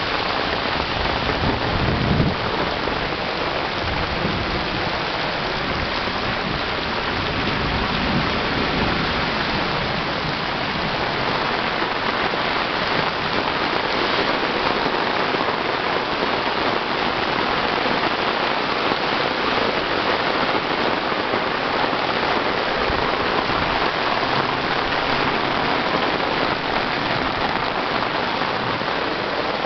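Heavy rain falling steadily onto a flooded road, a dense, even, unbroken hiss.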